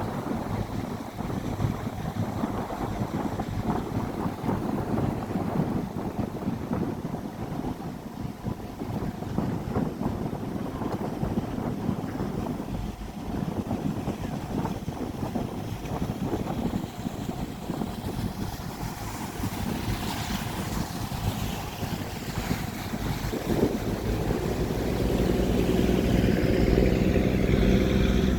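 Wind buffeting the microphone and water rushing past a river passenger boat under way, over the boat's engine. About four seconds before the end the engine drone grows louder and steadier.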